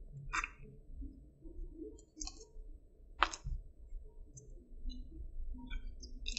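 Chewing a mouthful of breaded fried-chicken sandwich with crunchy jalapeño slices: scattered mouth clicks and small crunches at irregular spacing, the sharpest about three seconds in.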